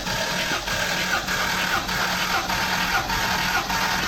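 1958 Jaguar XK150's 3.4-litre straight-six engine cranking over on its starter motor during a compression test, throttle held open. It turns over with a regular beat about every 0.6 s over a steady starter whine, and it starts to die away near the end.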